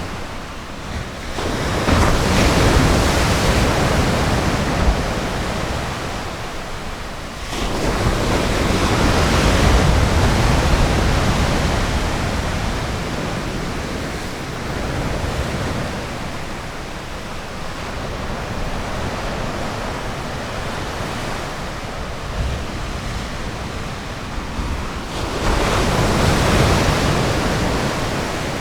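Ocean surf washing onto a beach, a continuous rush of water that swells up three times: about a second and a half in, at around seven seconds, and again near the end.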